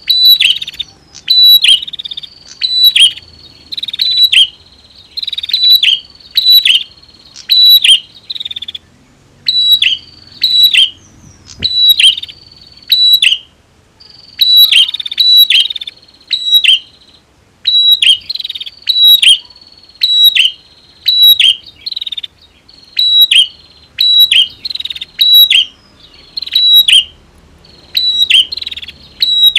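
Prinias (prenjak), female and male, calling together: a rapid series of loud, sharp, falling notes, about two a second, over a steady high-pitched buzzing trill, with a few brief pauses.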